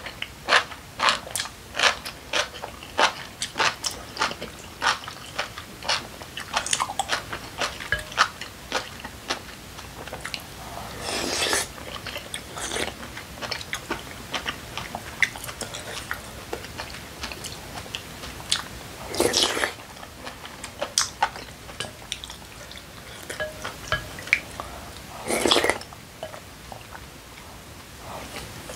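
Close-up eating sounds: a mouthful of yeolmu (young radish) kimchi bibimbap being chewed, with quick crunches several times a second. Three longer noisy sounds come about 11, 19 and 25 seconds in.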